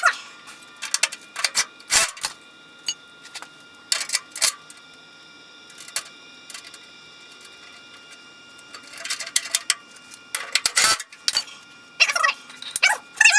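Hand tools on nuts and bolts: scattered sharp metallic clicks and taps, with runs of quick ratchet clicking about nine and twelve seconds in.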